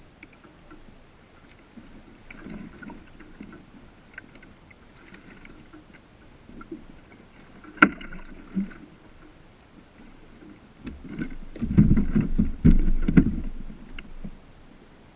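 Knocks and bumps on a kayak's hull, scattered light clicks with one sharp click about eight seconds in, then a run of loud thumps near the end.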